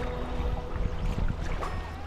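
Kayaking on a river: water sounds and wind on the microphone with scattered small splashes or knocks, and a couple of steady held notes of faint background music.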